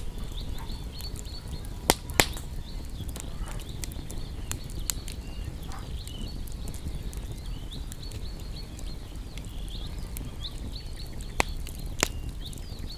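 Wood fire crackling over a steady low rumble, with a few sharp loud pops: two about two seconds in and two near the end. Small songbirds twitter with many quick high chirps throughout.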